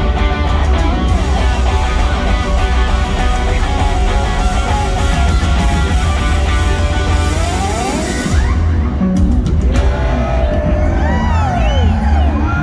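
Rock band playing live: electric guitars over heavy bass and drums. About eight seconds in the highest sounds drop away for a moment, then gliding, bending notes come in near the end.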